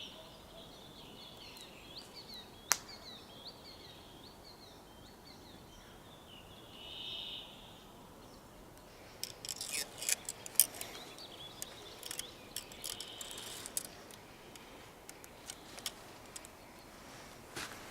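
Forest birds singing, one of them repeating a short buzzy phrase about every six seconds. A single sharp click comes about three seconds in, and a run of sharp crackling clicks comes around the middle.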